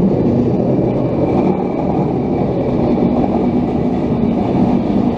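Electric multiple-unit passenger train passing at low speed: a steady rumble of wheels on rail with a faint steady hum.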